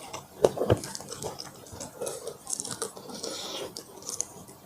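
Close-miked eating sounds: two sharp crunchy bites about half a second in, then wet chewing with scattered crackles.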